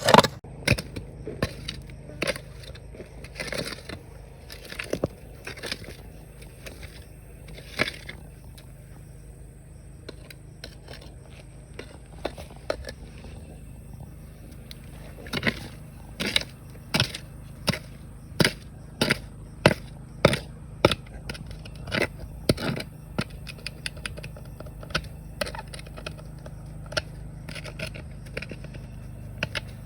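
Digging in a rocky riverbed: a tool scraping and striking rocks and gravel in irregular strokes, coming faster, about one or two a second, in the middle stretch, over a steady low rumble.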